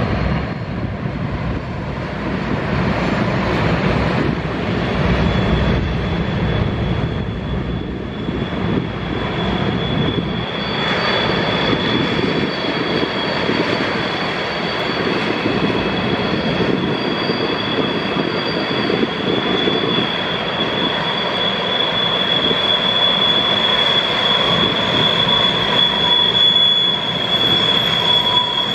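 Freight train of BNSF covered hopper cars rolling through a curve, the wheels rumbling on the rails. About ten seconds in, a steady high-pitched wheel squeal sets in and grows stronger toward the end.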